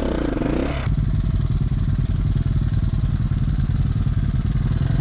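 KTM 450 SX-F dirt bike's single-cylinder four-stroke engine, revving up and down. About a second in, the sound cuts abruptly to the engine running steadily at low revs.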